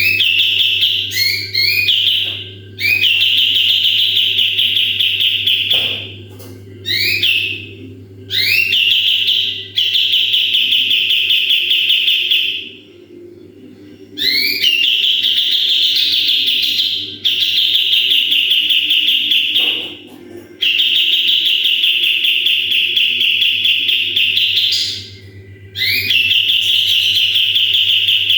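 Kapas tembak songbird singing its rapid 'tembakan' bursts: a string of long, fast, high trills of about three to four seconds each, repeated with short breaks, each opening with quick rising notes. A steady low hum runs underneath.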